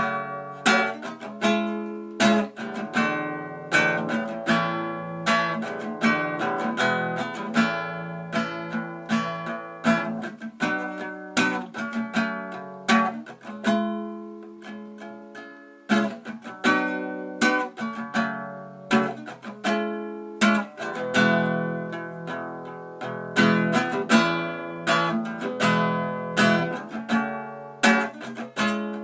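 Acoustic guitar playing chords, strummed and plucked, each attack ringing out; about halfway through one chord is left to fade before the playing picks up again.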